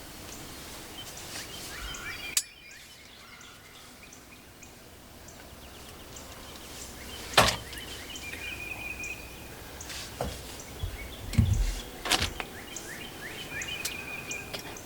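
Small songbirds chirping and trilling in the woods. Three sharp clicks or knocks cut through, about two, seven and twelve seconds in, with a short low thump just before the last.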